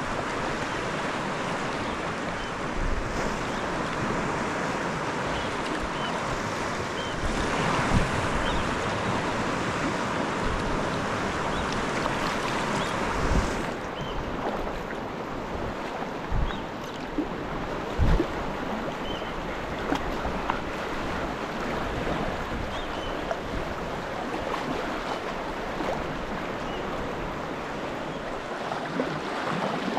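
Sea water washing and splashing around a sea kayak in the swell, with wind buffeting the microphone. The wash grows louder for several seconds, then drops back suddenly, and a few short low thumps break through it.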